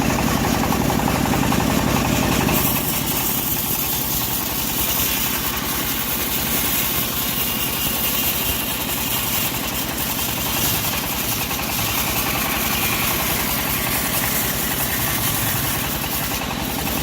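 Engine-driven bandsaw sawmill running steadily with a fast, even engine pulse as it saws a log. About three seconds in the sound shifts: the low end drops and a higher hiss comes up.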